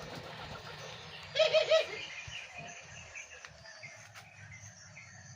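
A dove coos once, a quick run of three notes about a second and a half in. Fainter chirps from small birds follow.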